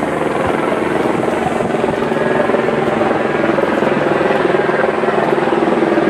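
Helicopter running steadily, its engine and rotor making a loud, even noise.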